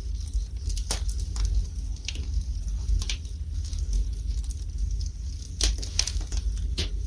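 Wood fire in a fireplace crackling, with irregular sharp pops (the strongest about a second in, around three seconds and around six seconds) over a steady low rumble.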